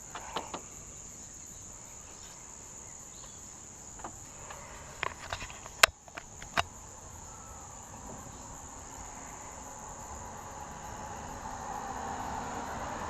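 Steady high-pitched insect chirring outdoors, with a few sharp clicks and knocks of hands working at a motorcycle's battery compartment, the loudest one a little before the middle. From about 8 s a low rumble grows slowly louder.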